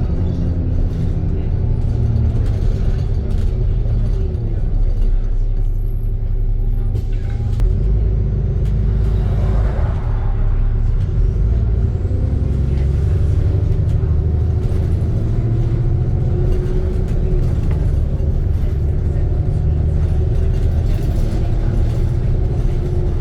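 ADL Trident II Enviro 400 double-decker bus running, a heavy low rumble with a drivetrain whine that slowly rises and falls in pitch as the bus speeds up and slows down.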